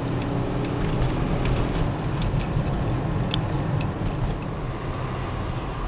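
Steady engine and road noise heard from inside a moving car, a constant low rumble with a few faint ticks scattered through it.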